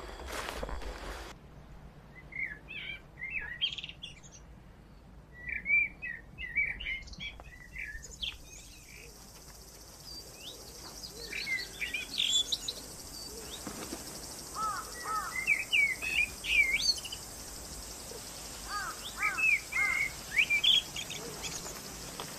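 Birds chirping in repeated bursts of short, quick rising and falling notes. From partway through there is a steady faint high hiss of forest ambience under them.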